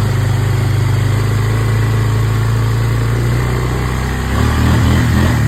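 Small off-road vehicle engine running low and steady, its note wavering a little about four seconds in.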